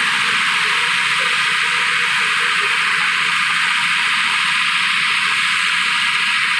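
Large sound-system speaker stack playing a loud, steady hissing test noise during a speaker check, with its middle range cut out.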